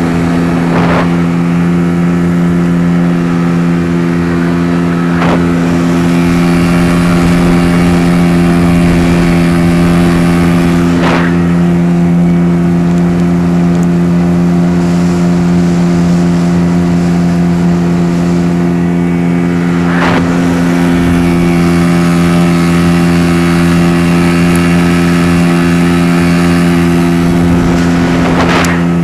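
Zongshen T30 hp outboard motor running steadily at a constant high speed, one unchanging engine note, with a few faint brief knocks along the way.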